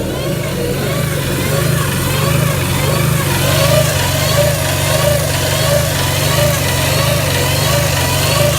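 Truck-mounted Ingersoll Rand air compressor, driven by hydraulic flow diverted from the crane, running steadily after kicking on, over the truck's engine. It has an even pulse and a wavering sound that repeats about one and a half times a second.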